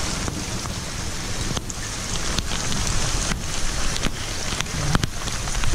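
Rain falling, heard through a GoPro's built-in microphone as a steady hiss with a low rumble of wind on the microphone. A few sharp ticks come through it.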